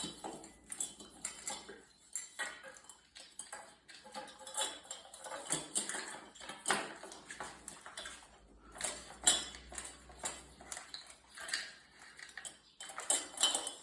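Metal ceiling-fan assembly parts clinking, clicking and scraping as they are handled and fitted together. The knocks are irregular, with the sharpest clinks about two-thirds of the way through and near the end.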